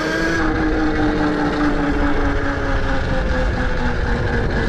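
Electric dirt bike's motor whining as it rides, the pitch rising briefly at the start and then falling slowly as the bike eases off, over a low rumble.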